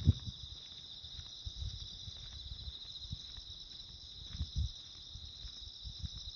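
Insects chirring in a steady, high-pitched chorus, with soft footsteps and clothing rustle close to the microphone, the loudest a thump just after the start.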